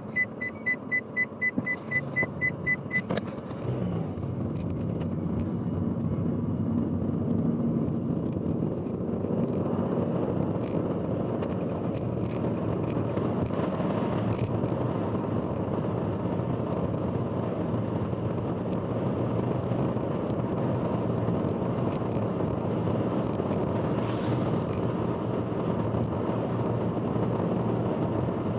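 Steady in-cabin road and engine noise of a car cruising on an expressway, swelling over the first several seconds and then holding. During the first three seconds a quick run of high electronic beeps, about four a second, sounds over it.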